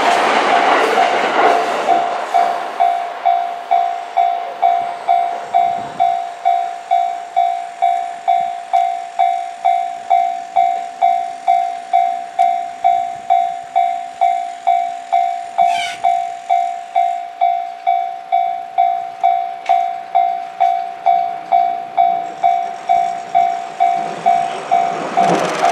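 Japanese railway level-crossing warning bell ringing steadily, a single tone about twice a second. Loud train running noise at the start fades within the first two seconds, and loud train noise swells again near the end.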